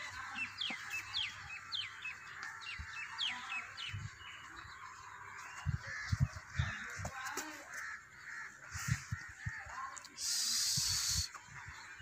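Birds calling around the buffalo pen: a quick run of short, high, falling chirps in the first few seconds, then scattered calls, with dull low thuds. About ten seconds in, a loud hiss lasts about a second.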